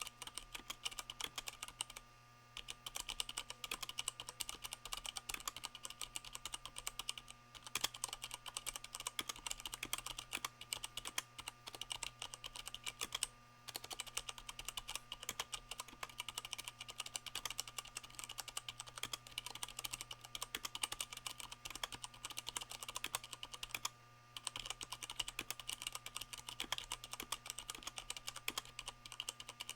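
Continuous typing on a Leopold FC660M mechanical keyboard with Cherry MX Brown switches fitted with rubber O-rings, the board resting on a microfiber towel. It is a dense, fast run of keystrokes broken by a few short pauses.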